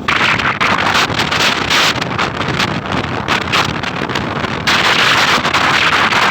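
Wind buffeting the microphone of a moving motorcycle, a loud, rough rushing that flutters and surges, with the ride's road and engine noise underneath.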